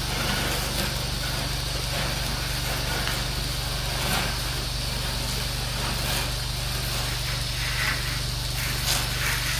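Small gas engine of a pressure-washing rig running steadily, with a constant hiss of spraying water.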